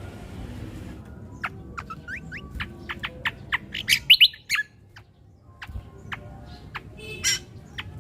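Cucak kombo (greater green leafbird) singing: a quick run of sharp chirps and whistled notes starting about a second in, loudest around the middle, then after a short pause a few more notes near the end.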